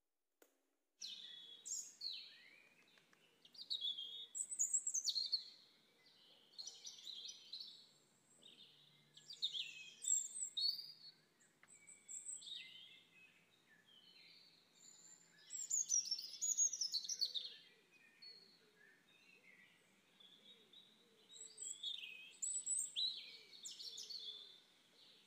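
Birds chirping and singing in short repeated phrases. The calls start about a second in, after a brief silent gap.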